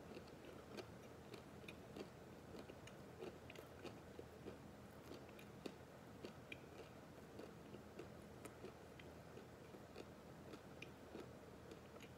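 Faint, irregular crunching of a mouthful of raw, dry instant ramen noodles being chewed.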